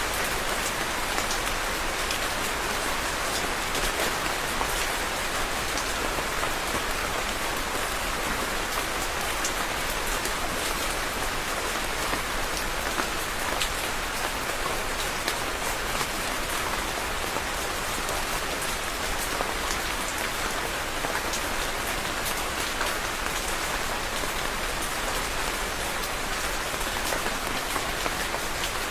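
Steady rain falling on a surface, a dense even patter of raindrops with scattered sharper drop ticks.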